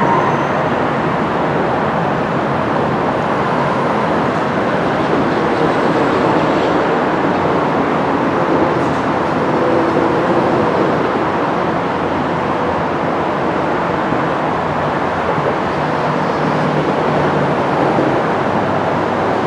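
DART light rail train running, a steady, even noise of wheels on rail.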